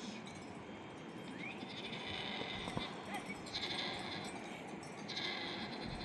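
Sheep bleating: three high, wavering bleats about a second and a half apart.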